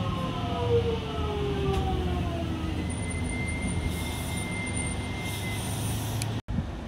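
A train running through a station: a steady low rumble with a whine of several tones that slowly falls in pitch over the first couple of seconds. The sound cuts out for an instant near the end.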